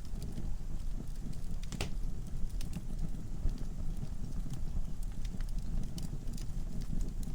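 Wood fire burning in a fireplace: a low steady rumble of flame with scattered sharp crackles and pops from the logs, one louder crack a little under two seconds in.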